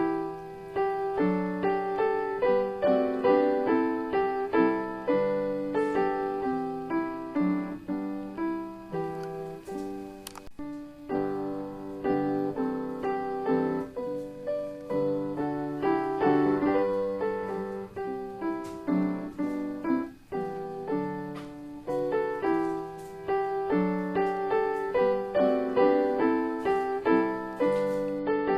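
Background piano music: a continuous flowing line of single notes and chords.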